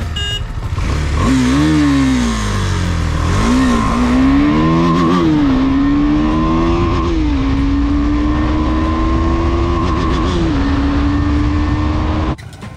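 KTM Duke single-cylinder motorcycle engine accelerating hard up through the gears. The pitch climbs and then drops at each upshift, about five shifts in all, over heavy wind rush. The sound cuts off abruptly near the end.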